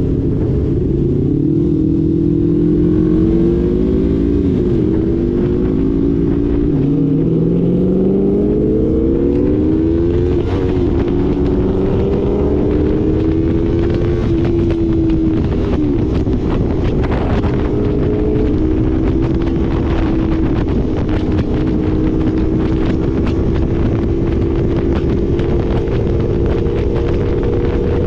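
Yamaha R3's parallel-twin engine heard while riding, with wind noise. For the first ten seconds or so the engine pitch climbs and drops again and again as it revs through the gears, then it holds at a nearly steady cruise.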